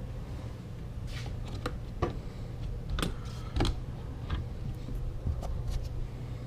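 Irregular sharp clicks and knocks, about a dozen, over a steady low hum, with the loudest knocks about two and three and a half seconds in.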